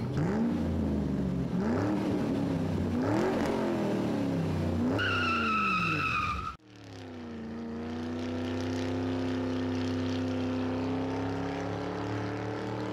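Car engine accelerating hard, its pitch climbing and dropping back several times as it shifts up through the gears, with a high tyre squeal about five seconds in. The sound cuts off abruptly and a car engine comes back in, running steadily with its pitch slowly rising.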